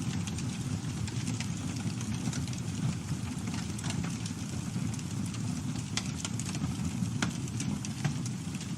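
Campfire burning: a steady low rumble of flames with irregular sharp crackles and pops from the burning wood, a few of them louder than the rest.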